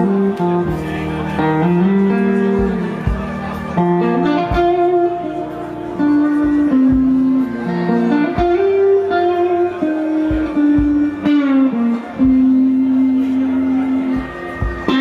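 Live band music with an electric guitar playing lead: long held notes that bend and slide in pitch, over steady drum hits.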